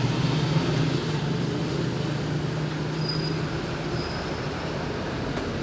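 Steady low mechanical hum over an even hiss, the kind of drone an air conditioner or fan gives off, with a couple of faint brief high whistles a few seconds in.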